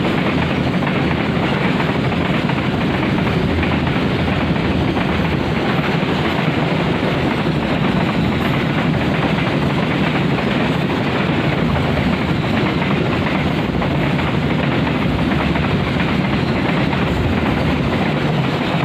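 Container freight train running on the rails: a steady, loud rumble of wagons and wheels on track.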